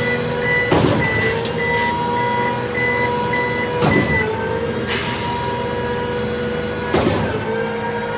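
Concrete mixer truck's diesel engine running while it backs up, its reverse alarm beeping steadily and stopping a little past halfway. Three heavy knocks come about three seconds apart, each with a brief dip in engine pitch, and a short hiss of released air sounds about five seconds in.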